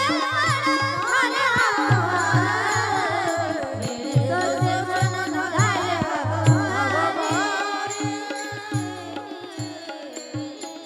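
Marathi devotional abhang singing: a melismatic voice over steady held accompanying tones and regular low drum strokes, the whole performance fading out over the last few seconds.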